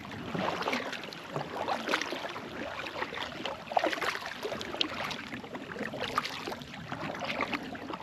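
Water splashing and trickling against a kayak as it is paddled: irregular small splashes and lapping, with no steady rhythm.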